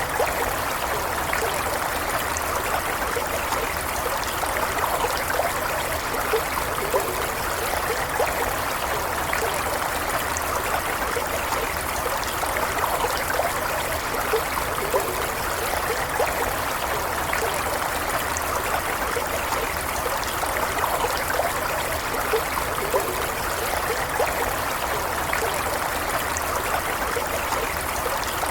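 A stream running over stones, a steady rush of flowing water with small trickling and gurgling splashes.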